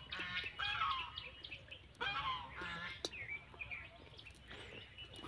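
Birds calling in short, repeated honking calls, several in quick succession.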